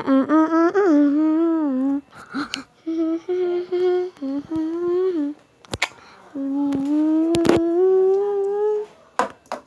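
A person humming wordlessly in three drawn-out phrases, the last one slowly rising in pitch, with a couple of sharp clicks between them.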